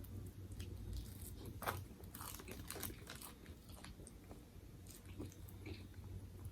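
Close-miked chewing of crunchy food: faint, irregular crunches and mouth clicks.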